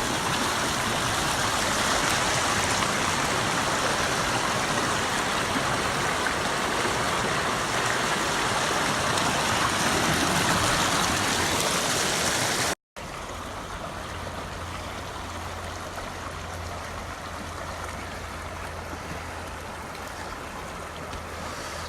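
Stream water running and splashing steadily. The sound cuts off abruptly about two-thirds of the way through and resumes quieter, with a low hum underneath.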